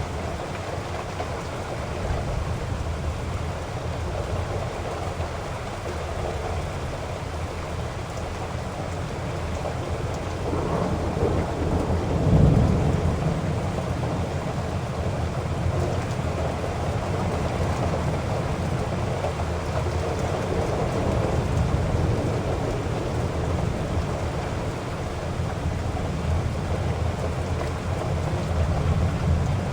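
Heavy rain falling steadily, with a low rumble of thunder that swells about halfway through.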